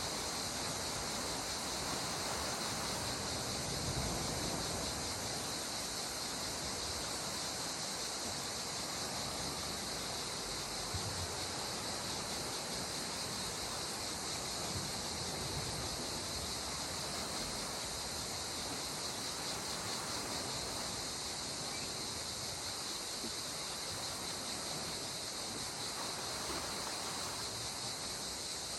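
Calm sea water washing gently, with a steady high insect chorus over it.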